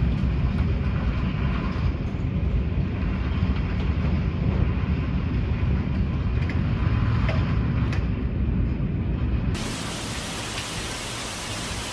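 Strong storm wind with a deep rumble, buffeting the microphone. Near the end it cuts abruptly to a steady hiss of heavy rain.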